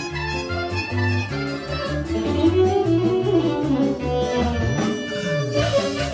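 Serbian kolo folk dance music: a violin leads over a fast, steady beat and bass, with some sliding notes about five seconds in.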